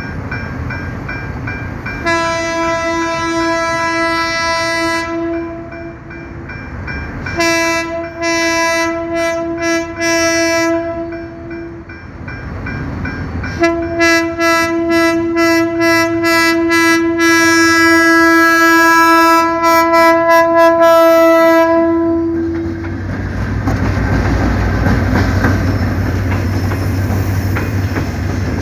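EMD GT22CW diesel locomotive's horn sounding three long blasts, the last held about nine seconds, as a greeting. Then the passenger train passes with a steady low engine rumble and the clatter of wheels over the rails.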